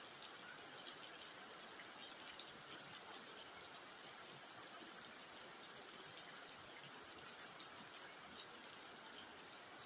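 Steady rain falling, an even patter with a constant high hiss above it.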